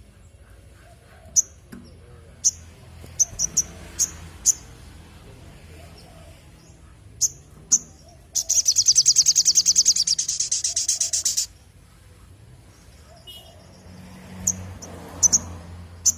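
Sogok ontong (spiderhunter) calling: sharp single high chips scattered through, with a loud, rapid, buzzy trill lasting about three seconds in the middle.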